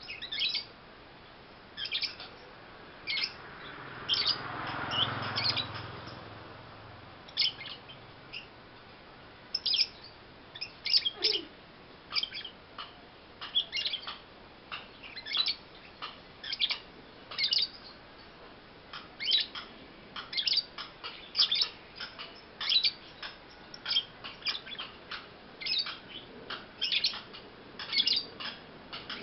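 Young lovebird chirping: many short, sharp high chirps, at first spaced out and then coming in quick clusters of one to a few a second. A brief low rushing noise rises and fades about four to six seconds in.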